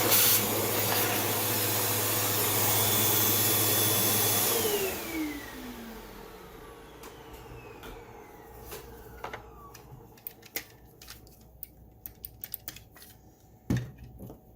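An electric motor running with a loud rush of air, switched off about four and a half seconds in and winding down in a falling whine. Small clicks and taps follow, with a louder knock near the end.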